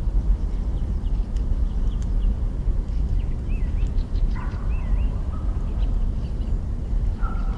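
Campfire crackling with faint sharp snaps over a steady low rumble, while a bird calls in short curling whistles about three to five seconds in and once more near the end.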